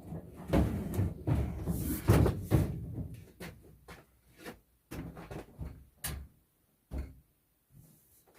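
A storage cabinet being shifted and bumped into place, giving irregular knocks, clunks and scrapes. They come thickly in the first few seconds, then as a few separate sharp knocks.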